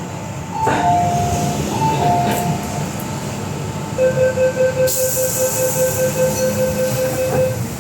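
MTR Island Line M-train car running with rumble and the mild brake squeal known to railfans as 'ghost howl'. A pair of short high whines comes about a second in. A pulsing steady whine then sets in about halfway and stops just before the end, with a hiss of air joining it.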